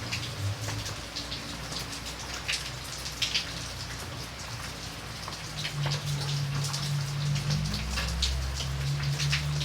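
Steady rain falling, with many single drops landing sharply on a surface, over a low hum.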